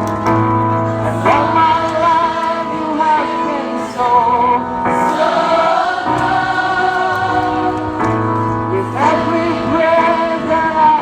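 A group of voices singing a slow Christian worship song over sustained keyboard chords with a steady bass note.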